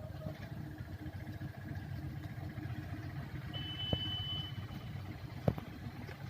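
Vehicle engine idling steadily, with a short high-pitched tone lasting about a second midway and a couple of sharp knocks.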